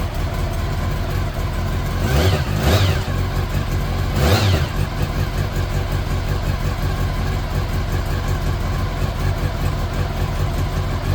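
Honda CBR400RR's inline-four engine idling, with three quick throttle blips that rise and fall in pitch in the first half.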